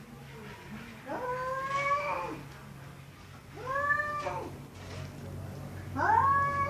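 Cats in a fight, one yowling in three long drawn-out calls a couple of seconds apart. Each call rises and then falls in pitch, sounding almost like a child talking.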